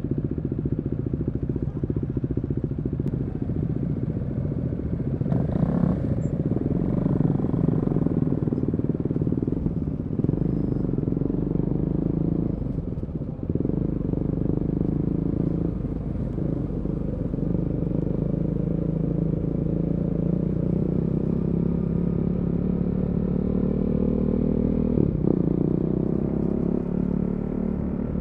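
Motorcycle engine running and being ridden with an Akrapovic slip-on exhaust and decat pipe, holding a steady note with brief breaks and pitch changes as it shifts gear. It revs up near the end.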